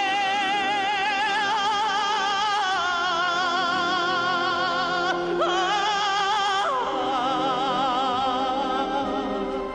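Operatic-style singing: long held notes with wide vibrato over musical accompaniment, stepping up to a higher note, sliding up further about halfway and gliding back down a little later.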